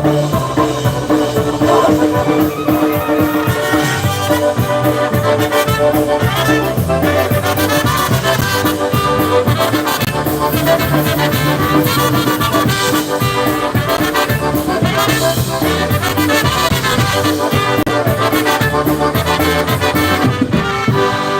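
Live polka band playing a brass-led instrumental passage, with the band sounding steadily throughout.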